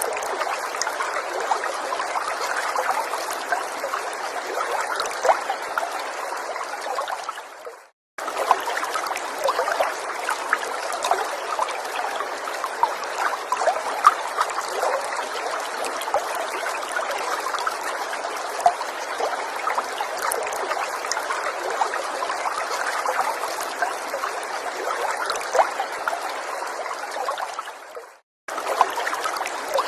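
A gentle forest stream trickling and burbling steadily, with fine splashy sparkle. The flow fades down to a brief silence and starts again abruptly, once about 8 seconds in and again near the end.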